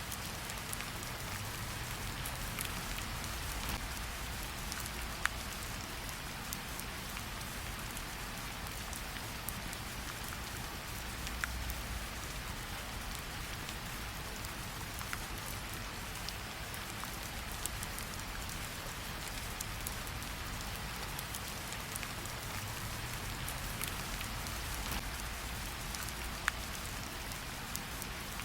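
Steady rain mixed with a wood fire crackling in a fireplace, a few sharp pops standing out over the even hiss of the rain.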